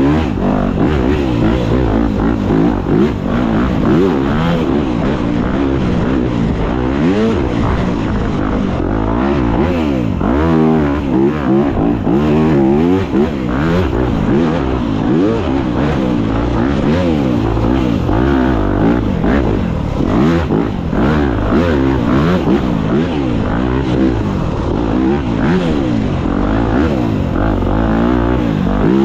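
Dirt bike engine revving as it is ridden. Its pitch rises and falls over and over with the throttle, with a quick run of short revs about ten seconds in.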